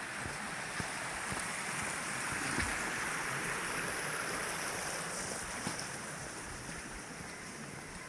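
Steady outdoor rushing noise, swelling a little about three seconds in and fading slowly toward the end, with a few faint ticks.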